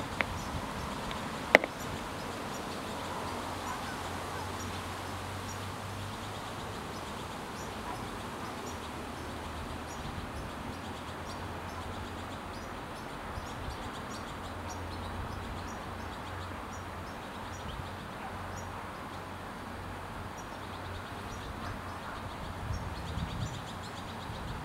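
Faint short, high bird chirps repeating every second or so over steady outdoor background noise, with a low hum that comes and goes and a single sharp click about one and a half seconds in.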